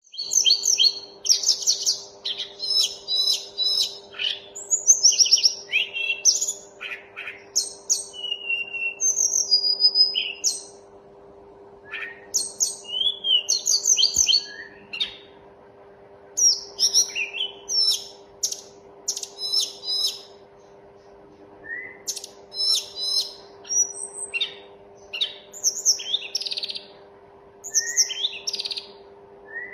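A tledekan gunung songbird singing in rapid phrases of high chirps, trills and short whistles, with brief pauses between bursts. A faint steady hum runs underneath.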